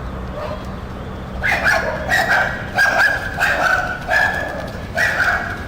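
A small dog yapping repeatedly: about eight short, high yaps, starting about a second and a half in.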